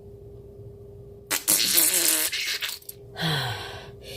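A loud, wet slurp of liquid gulped from a bowl, about a second long, followed by a shorter slurp with a low falling grunt, over a steady faint hum.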